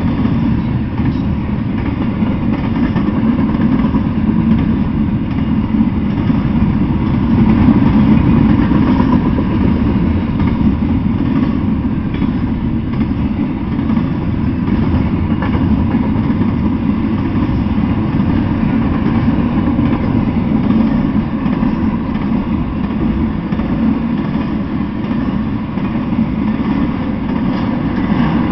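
Intermodal freight train cars (double-stack well cars and trailer-carrying flatcars) rolling past, a steady deep rumble of steel wheels on the rails.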